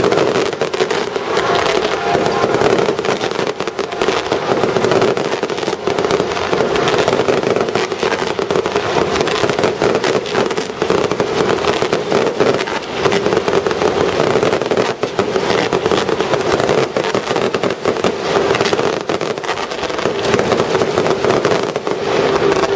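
Aerial fireworks display: a dense, continuous barrage of bursts and crackling reports in quick succession, with a steady tone underneath.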